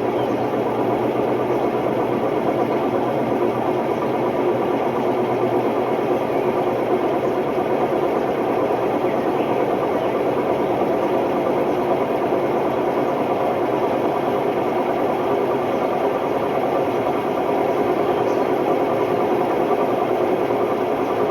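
Hotpoint Ultima WMD960 washing machine spinning at a steady speed, making a loud, continuous mechanical noise: the sign of bad drum bearings.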